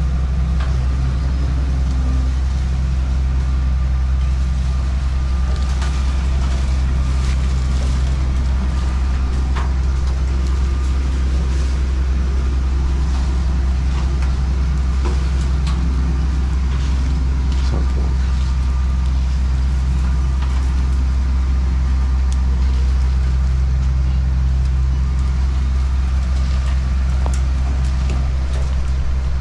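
Farm machine's diesel engine running steadily at an even speed, a deep continuous hum, with a few faint knocks and rattles.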